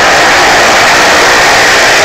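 Car engines running inside a wooden well-of-death drum, so loud that the sound is a steady, harsh, overloaded noise.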